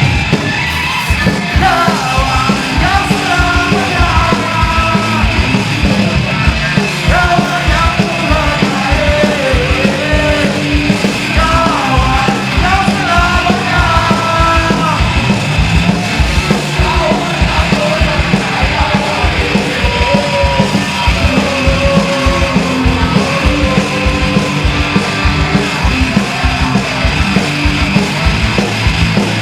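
Punk rock band playing live, with fast, driving drums and guitars and a singer's vocal over it for stretches.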